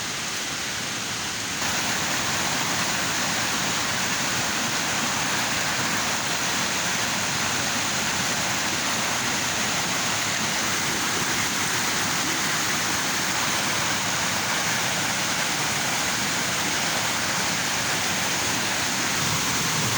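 Steady rushing of river water, a constant hiss-like roar that gets a little louder about a second and a half in.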